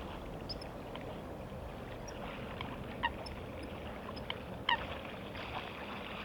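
A bird giving a few short calls, the loudest one about two-thirds of the way through, over a steady rushing background noise.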